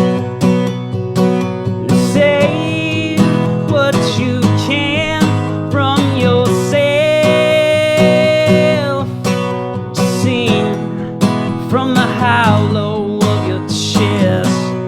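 Acoustic guitar strumming steadily in a song's instrumental break, with a wavering, bending lead melody over it from about two seconds in until near the end, including one long held note in the middle.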